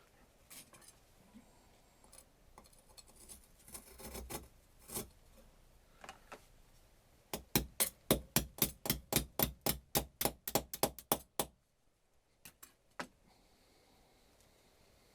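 A hammer tapping rapidly, about twenty sharp strikes at roughly five a second that stop abruptly, after some scattered lighter clicks and knocks.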